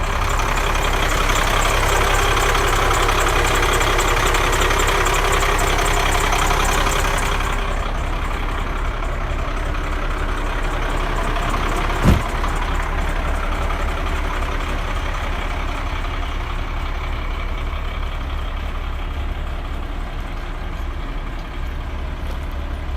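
1995 Ford L8000 truck engine running at idle, louder and brighter for about the first seven seconds, then settling into a steadier, duller idle. A single sharp knock is heard about halfway through.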